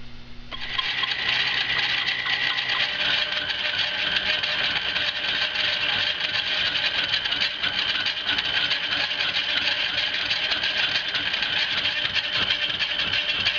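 Rockford 20-inch swing lathe starting up about half a second in, then running steadily while it takes a cut across a metal surface, with a fine rapid chatter and a high ringing tone.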